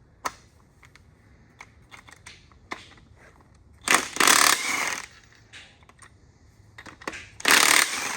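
Tools working on the bolts of an LS1 engine block's main bearing caps: scattered small metal clicks, and two loud bursts of about a second each, the first about four seconds in and the second near the end.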